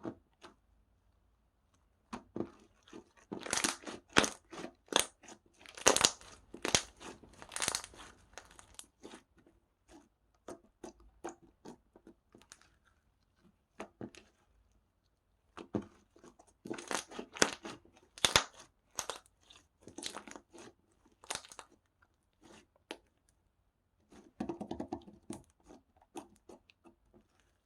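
Slime being squeezed and pressed by hand, giving crunchy crackling and popping in three bursts of rapid sharp clicks with pauses between.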